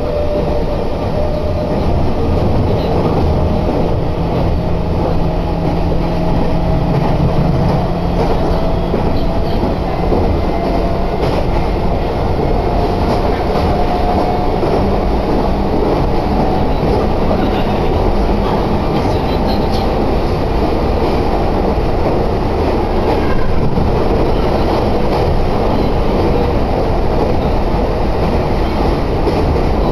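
Meitetsu commuter train running, heard from inside the passenger car: a steady rumble of wheels on rails, with a faint whine that rises slowly in pitch over the first half.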